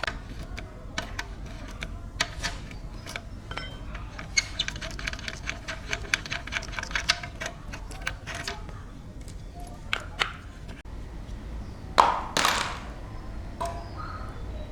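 Sharp clicks and knocks of hand work on metal, with a quick, even run of clicks in the middle and a loud knock near the end followed by a short rush of noise.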